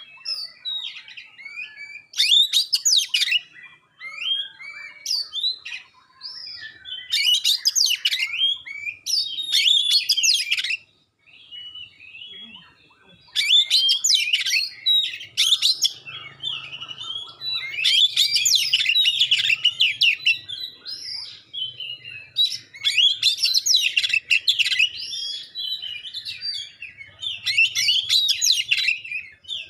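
Oriental magpie-robin (kacer) singing in repeated loud bursts of rapid, sharp, clear notes, the 'tembakan' phrases prized by keepers, every few seconds, with softer chirps in between.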